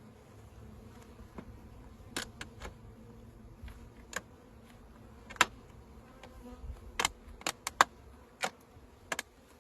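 Honeybees buzzing in a steady hum around a newly installed hive, with about a dozen sharp clicks and taps scattered through, most of them in the second half.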